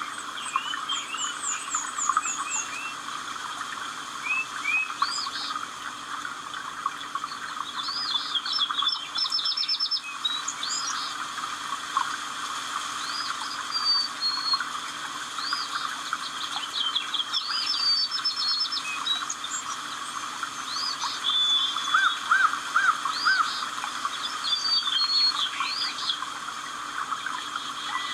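Birds chirping and calling, many short overlapping notes and quick trills, over a steady background chorus.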